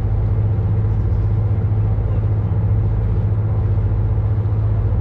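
Ship's engine running, a steady deep hum.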